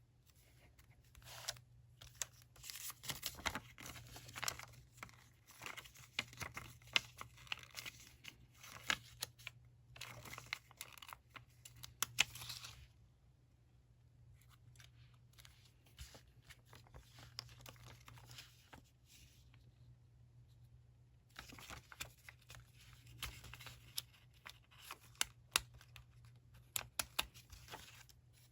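Paper and sticker material being handled at a desk: rustling, crinkling and tearing in two long stretches, with scattered small clicks and taps and a quieter lull between them, over a faint steady low hum.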